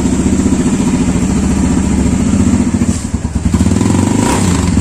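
Trail motorcycle engine idling steadily, its firing pulses even, with a brief dip about three seconds in.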